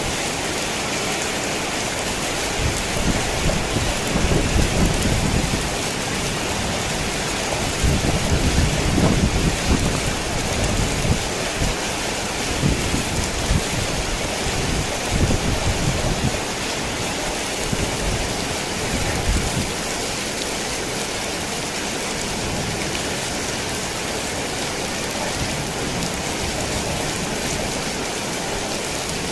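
Heavy rain falling steadily on a tin roof, with a long low roll of thunder that builds a few seconds in, is loudest about a third of the way through and dies away after about twenty seconds.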